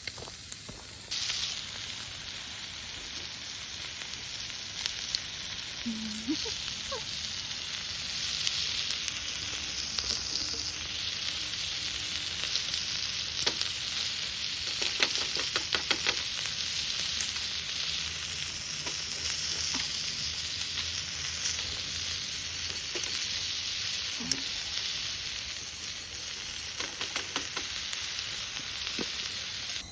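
Food sizzling as it fries over the heat of a campfire, a steady hiss with scattered crackles and pops, starting abruptly about a second in.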